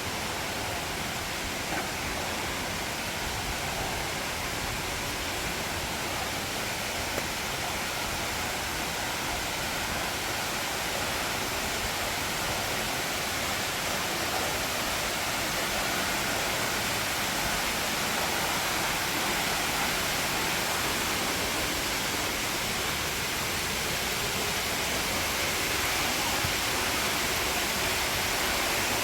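Steady rush of falling water, an even hiss, growing a little louder near the end.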